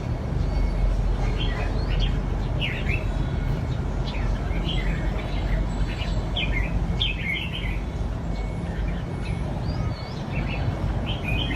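Red-whiskered bulbul song: short, bright, warbling phrases repeated every second or so, over a steady low background rumble.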